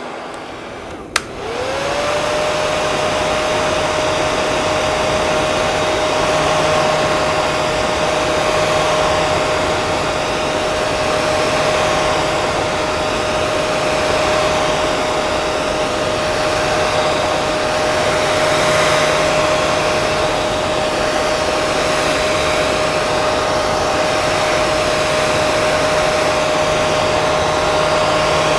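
Hair dryer blowing. There is a click about a second in, then the sound gets louder and the motor's whine rises quickly to a steady pitch. It holds steady over the rush of air.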